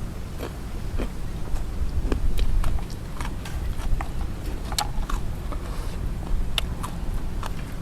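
Wind buffeting the microphone as a steady low rumble, with scattered sharp clicks and smacks of someone eating blood cockles.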